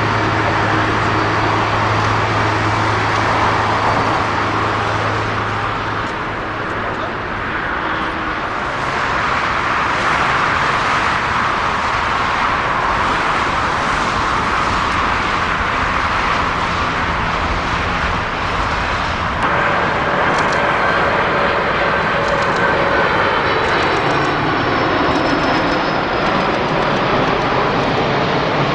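Jet airliner engines running, a steady rush of noise with a high whine that comes in about two-thirds of the way through and slowly falls in pitch.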